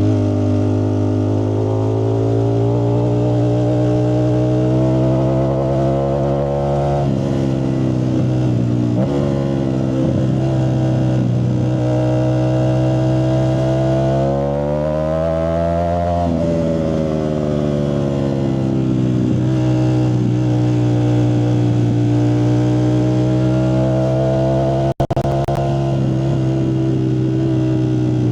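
Ducati Streetfighter V4S's V4 engine running through a Zard exhaust, its engine speed rising and falling slowly and smoothly, peaking about halfway through. The sound cuts out for a split second near the end.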